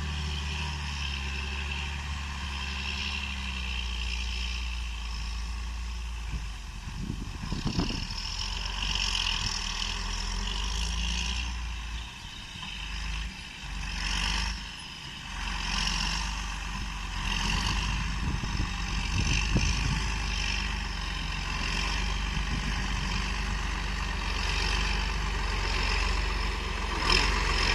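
John Deere 8420 tractor's six-cylinder diesel engine running steadily, its level dipping and picking up again a few times around the middle.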